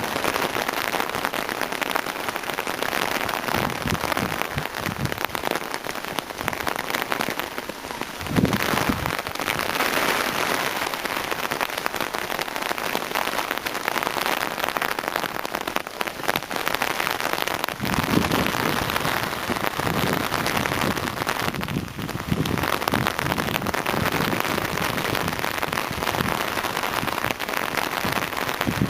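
Heavy rain pelting down steadily on surfaces, a dense hiss of countless drop impacts, with two brief low surges about 8 and 18 seconds in.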